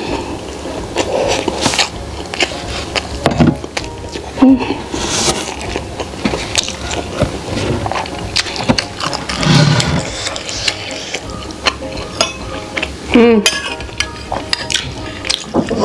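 Close-miked mouth sounds of eating: wet chewing and small clicks of a bite of fried ngohyong, with a few short closed-mouth "mmm" hums of enjoyment. Near the end a metal spoon clinks in a glass bowl of meatball soup.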